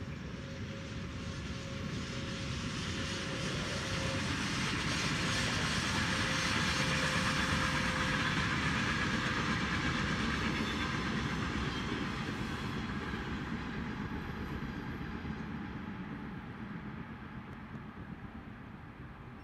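Electric-hauled freight train of tank wagons passing at a distance: the rolling noise of the wheels on the rails swells to a peak about seven seconds in, then fades away. A steady whine sounds during the first half.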